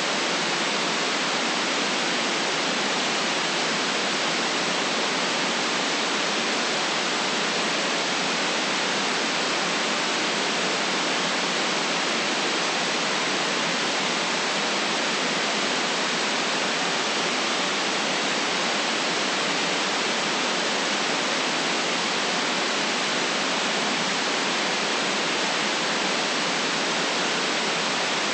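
Steady synthetic white noise: an even, unchanging hiss with no traffic or other events in it.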